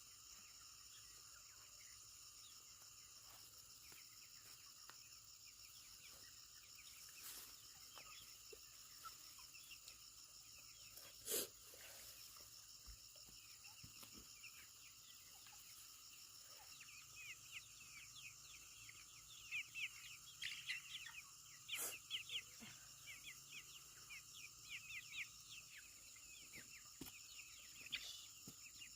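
Faint, steady high insect drone, with birds chirping in quick short calls from about halfway through, and a few sharp clicks.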